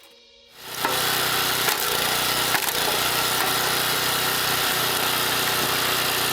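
Engine-powered wood-cutting machine running steadily as it cuts wood, coming in suddenly about half a second in.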